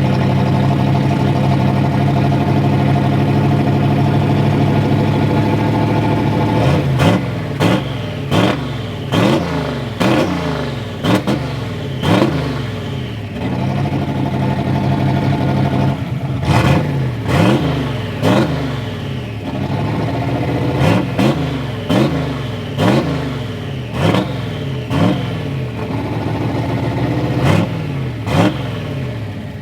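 Turbocharged Ford Ranger engine, fresh from a new top end, idling steadily, then from about seven seconds in revved in short throttle blips roughly once a second, the pitch jumping up and falling back each time.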